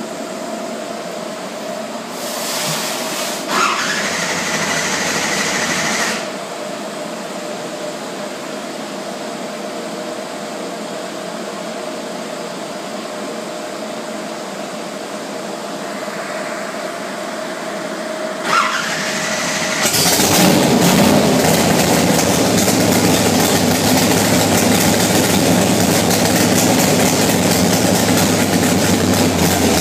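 Big-block V8 drag car engine on a dyno. It is cranked briefly twice with a rising whine, catches about twenty seconds in, and runs loudly at idle. Before that there is a steady hum with a held tone.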